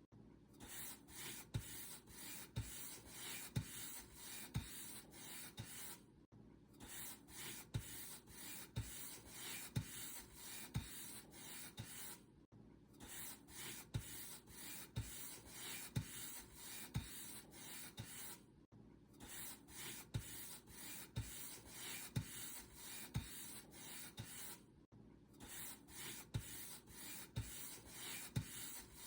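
Paint brush bristles stroked back and forth over a surface, a dry hissing swish about twice a second with a soft knock at the start of many strokes. The strokes break off for a moment about every six seconds.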